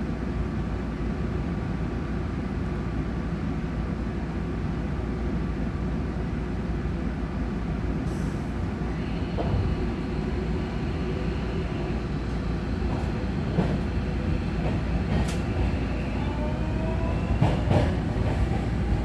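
Inside a JR Kyushu 305 series electric motor car as the train gets under way: a steady low rumble of wheels on rail with faint steady motor tones. Over the last few seconds, thin tones rise in pitch as the traction motors whine higher with speed, with a few sharp clicks from the wheels and rail joints.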